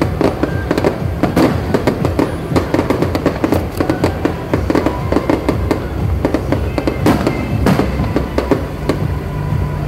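Fireworks going off in quick succession, a dense string of sharp bangs and crackles with no break.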